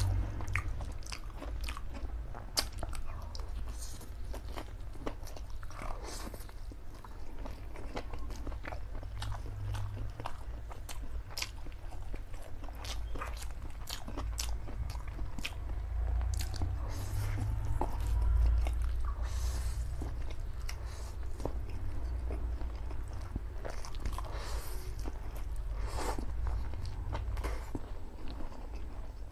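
A person chewing big mouthfuls of saucy Samyang spicy black bean noodles, with many sharp wet mouth clicks and smacks throughout, over a steady low rumble.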